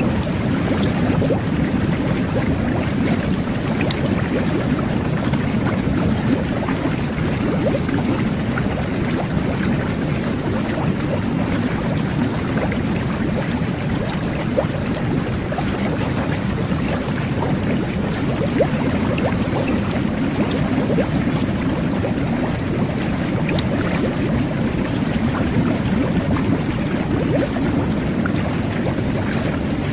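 Jet bath (whirlpool tub) jets churning the bathwater: a steady, dense rush of bubbling water.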